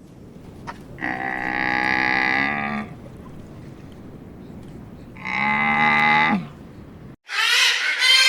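An animal calling twice, each a long, steady, drawn-out call, the first about two seconds long. Near the end a different, higher and wavering animal call begins.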